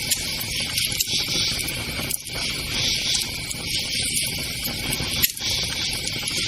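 Crickets chirping in a steady pulsing chorus, with a campfire crackling and giving a few sharp pops.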